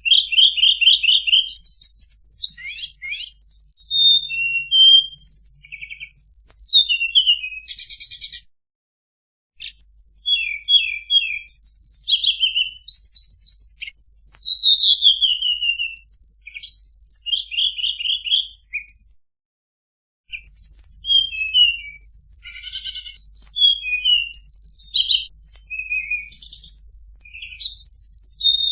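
Tledekan song: a small songbird singing fast, varied phrases of high trills, quick up- and down-slurred whistles and buzzy notes, almost without pause. The song stops twice for about a second, once about a third of the way in and once about two-thirds in.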